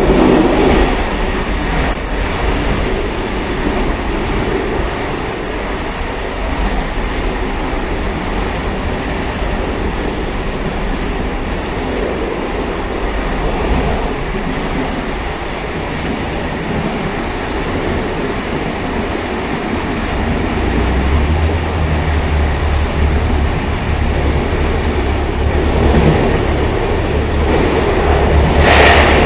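Railcar running along the track: a steady rumble and rattle of the moving train. A deeper low drone comes in about two-thirds of the way through, with brief louder swells near the end.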